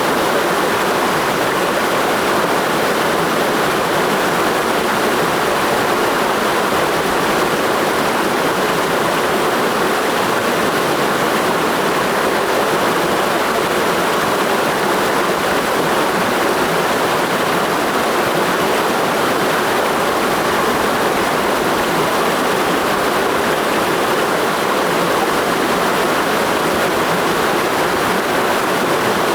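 Clear mountain stream rushing over rocks in a steady, unbroken flow, its sound centred in the middle range.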